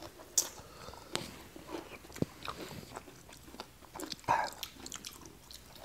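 People chewing and biting mouthfuls of spicy Thai noodle salad with prawns, wet mouth sounds broken by a few sharp clicks and small crunches, the loudest a little after four seconds in.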